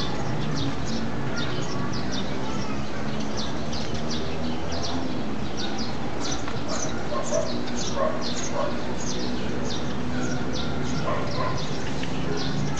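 Small birds chirping over and over in short, falling high notes, above a steady low hum, with a few lower calls in the middle.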